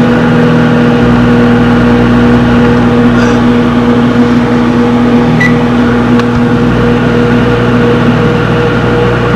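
Microwave oven running, a steady loud hum, while a marshmallow Peep cooks inside.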